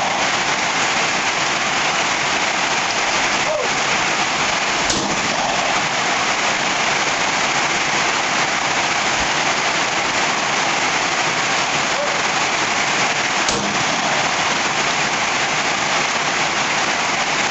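Steady heavy rain, an even hiss, with a few faint knocks.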